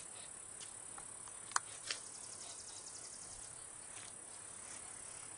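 Steady high insect-like trilling outdoors, with two short sharp clicks about a second and a half in and a brief rapid run of high ticks just after.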